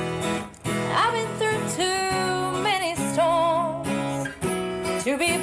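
Acoustic guitar strummed under a solo voice singing long held notes with vibrato.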